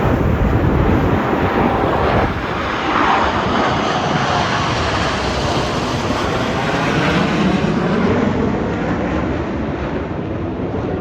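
Loud, steady jet noise from U.S. Navy Blue Angels F/A-18 Super Hornets flying past, with sweeping, whooshing shifts in tone as they go by. It eases off slightly near the end.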